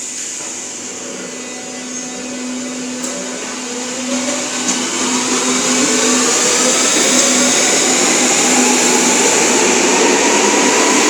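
Berlin U-Bahn class H train pulling out of a station. Its traction motors whine in several tones that rise steadily in pitch as it speeds up, over a rising rush of running noise that grows louder.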